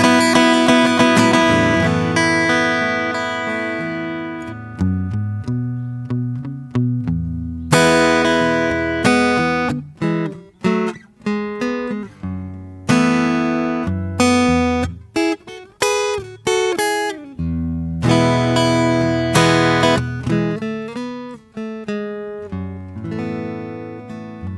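Solo acoustic guitar playing slow improvised music: strummed chords left to ring and fade, then picked single notes and further chords with short pauses between phrases.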